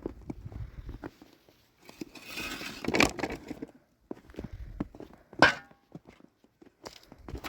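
Hands-on work noises: scattered knocks and thuds, a longer rustle about two seconds in that ends in a knock, and one sharp knock about five and a half seconds in.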